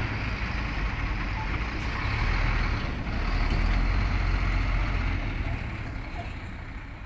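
Diesel engine of a HOWO ten-wheel dump truck running with a steady low rumble. It swells a little about halfway through, then fades near the end.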